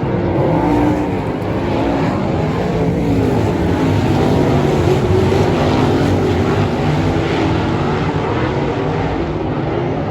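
Sprint cars racing in a heat on a dirt oval: several engines running hard at once, their pitches rising and falling as they go through the turns.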